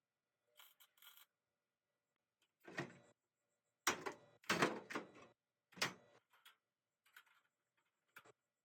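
Sheet-metal and tool handling: a string of short knocks and clatters, loudest about four to six seconds in, with fainter taps near the end.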